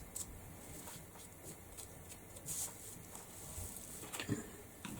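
Faint rubbing and scratching of paint being worked over a board by hand, with a couple of soft taps, one of them near the end.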